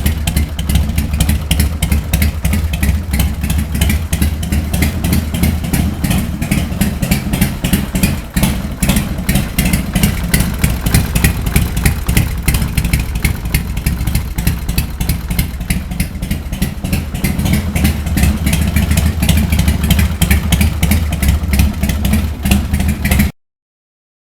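1999 Buell X1 Lightning's 1200cc V-twin running at a steady idle through loud aftermarket Big Bad Pup exhaust pipes, with a quick, uneven pulsing beat. The sound cuts off abruptly near the end.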